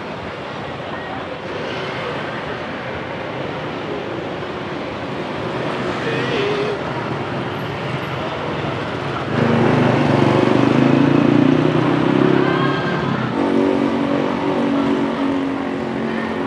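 Street traffic noise with a motor vehicle's engine passing close, loudest for about four seconds past the middle, then easing off.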